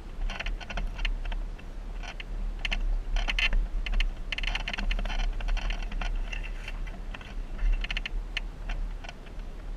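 Off-road vehicle on a rough trail: quick, irregular clusters of clicking and rattling over a steady low rumble.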